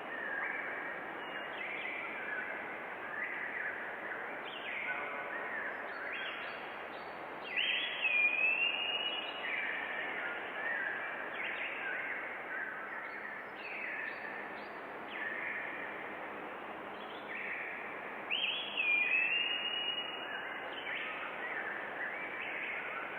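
Forest birds singing and calling over a steady background hiss: many short chirps and whistled phrases overlap. Twice, once about a third of the way in and once near the end, a louder call slides down in pitch and then holds a steady whistle.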